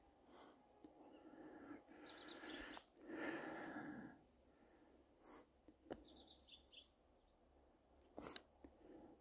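A songbird singing two quick runs of high, falling notes a few seconds apart. There is a brief louder rustle about three seconds in and a few soft knocks, in a quiet forest.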